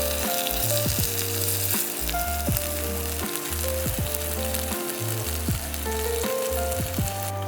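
Food sizzling and frying on a hot pan or griddle: a dense, steady hiss that cuts off suddenly near the end. Background music with bass notes and a melody plays underneath.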